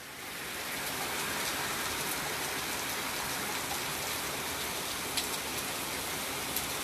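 Steady rain falling, an even hiss of rain on surfaces that builds over the first second and then holds, with a few sharp drip ticks near the end.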